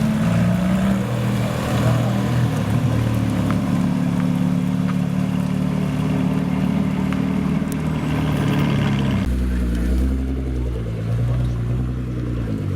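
Car engines running at a low, steady pace, with light revving. About nine seconds in, the sound turns to a deeper, duller rumble.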